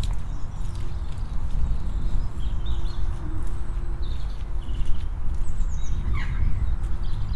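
Footsteps walking along a muddy path over a steady low rumble, with small birds chirping in short calls and one louder call about six seconds in. A faint steady hum runs underneath.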